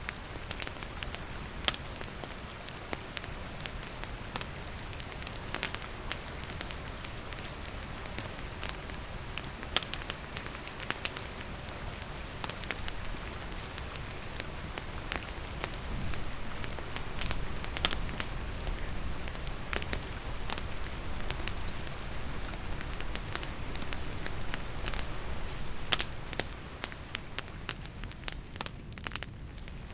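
Wood campfire crackling with frequent irregular sharp pops, over the steady hiss of rain falling.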